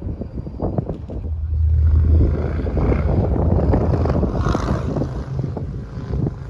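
A vehicle engine running with a deep rumble that swells to its loudest about two seconds in, mixed with wind noise on the microphone.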